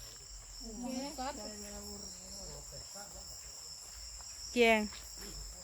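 Chorus of night insects calling, a steady high-pitched trill that does not let up. Faint voices are heard about a second in, and a short spoken word near the end.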